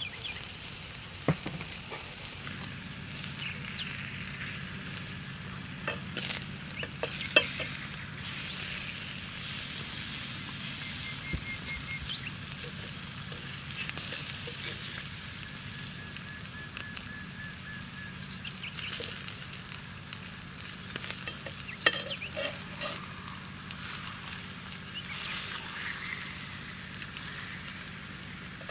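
Cow liver sizzling on a hot stone slab, a steady frying hiss with a few sharp clicks.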